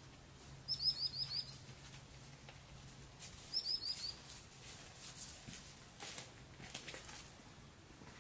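A small bird calling two quick runs of four or five short falling chirps, about three seconds apart, over soft irregular scuffing noises.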